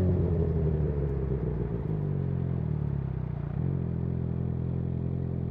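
Suzuki GSX-R750's inline-four engine, its note dropping in the first second as revs fall, then running steady and low.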